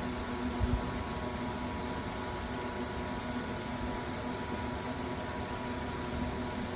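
Steady background hum and hiss with faint constant tones, broken by two soft low thumps just under a second in.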